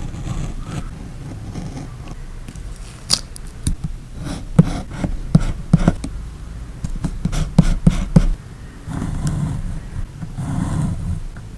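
Close-miked hand-crafting sounds at a journaling desk: paper, tape and stickers being handled, with a quick irregular run of sharp taps and clicks in the middle, then louder rustling and scraping.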